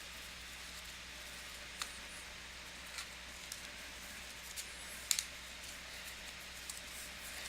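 Trading cards being handled and flipped through: a few faint clicks and snaps of card stock, with brief squeaks of glossy chrome cards sliding against each other, the sharpest pair about five seconds in.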